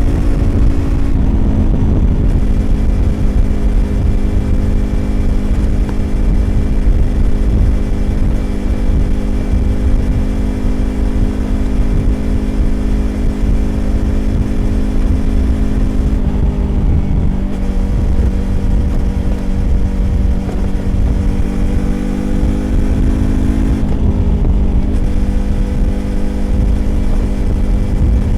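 Yamaha YZF-R25's 250cc parallel-twin engine running through a Prunus aftermarket exhaust while riding at steady revs, with wind and road rumble underneath. The engine note briefly changes three times: about a second in, about halfway through and again near the three-quarter mark.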